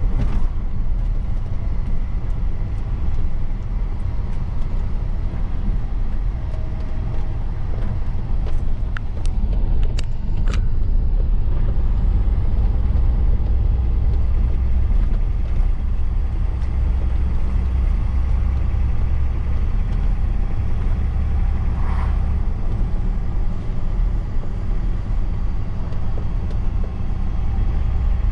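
Truck engine and road noise while driving: a steady low rumble, with a few sharp clicks about nine to ten seconds in.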